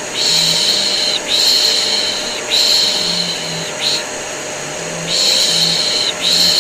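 Rhythmic 'shhh' shushing, each hush lasting about a second with short breaks between, over the steady hum of a running vacuum cleaner. It is baby-soothing white noise for a colicky infant.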